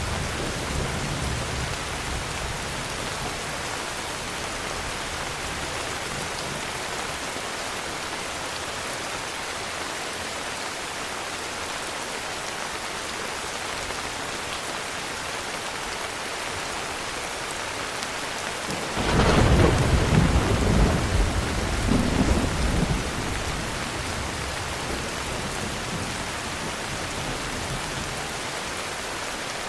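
Heavy, steady rain with a clap of thunder about two-thirds of the way through that rumbles on for a few seconds, swelling once more before it fades. The tail of an earlier rumble dies away at the start.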